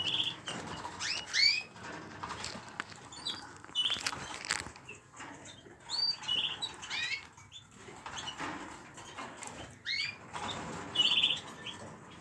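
Small pet birds chirping in their cage: short upward-gliding chirps and, four times, a short buzzy call, amid small clicks and scratches.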